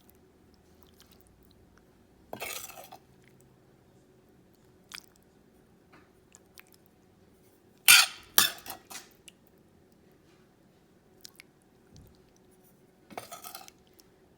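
A serving spoon scraping and clinking against the pot and bowl as thick chili is scooped out, in three short bursts of clatter, the loudest in the middle.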